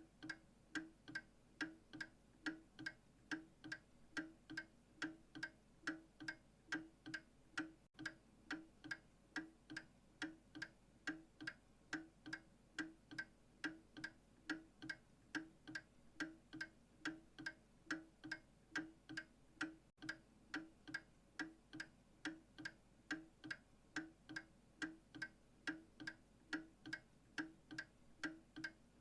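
A clock ticking steadily at about two ticks a second.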